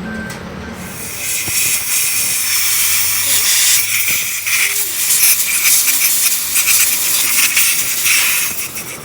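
Loud steady hiss, like a jet of air or spray, starting about a second in and cutting off sharply at the end.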